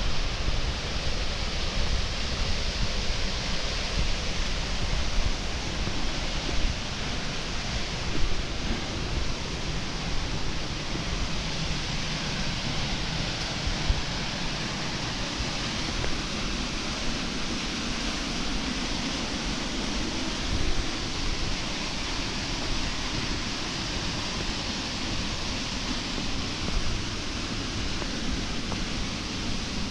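Steady rush of fast-flowing water from a river running high after rain, with wind buffeting the microphone.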